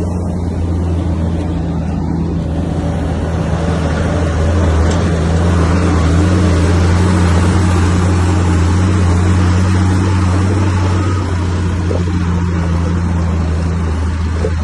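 Heavy diesel engine of a bulldozer running steadily under load, with a low drone that grows louder and rougher a few seconds in and eases off again near the end.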